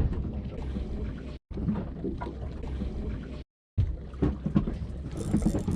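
Water slapping against a small boat's hull, with wind buffeting the microphone and a few irregular knocks. The sound cuts out completely twice, briefly.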